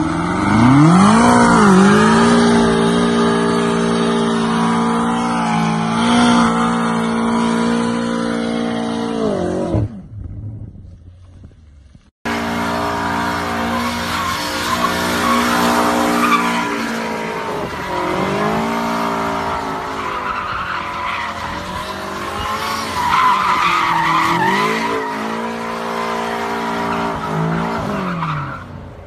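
BMW M5 F90 Competition's twin-turbo V8 revs up and holds at high rpm for about ten seconds, then drops away. After a short break it runs hard again, its revs repeatedly dipping and rising as the car drifts, over the squeal and scrub of spinning, skidding tyres.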